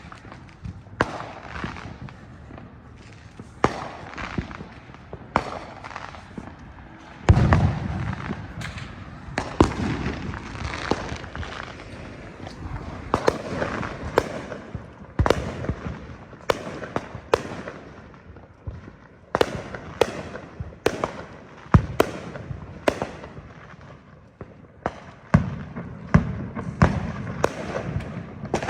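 Fireworks and firecrackers going off all around: irregular sharp bangs and pops one after another, with a louder deep boom about seven seconds in and crackling in between.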